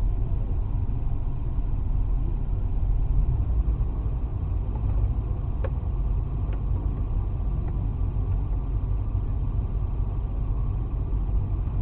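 Steady low rumble of a car's engine and road noise, with a few faint ticks near the middle.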